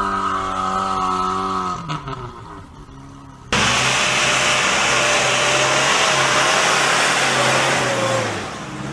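Off-road vehicle engine revved high and held, then dropping off about two seconds in. After an abrupt change about three and a half seconds in, a loud, even rushing noise with a low steady engine hum beneath it, easing off near the end.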